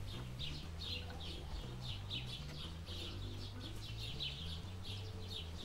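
Small birds chirping steadily, about two or three short high chirps a second, over a low steady hum.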